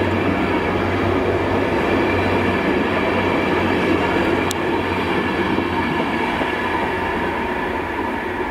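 Transport for Wales passenger train running past along the platform, wheels on the rails and a steady running noise. It slowly fades as the train draws away.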